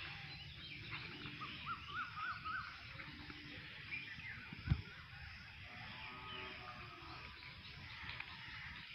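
Birds chirping, with runs of short rising-and-falling calls, over a steady outdoor hiss. One dull thump about halfway through.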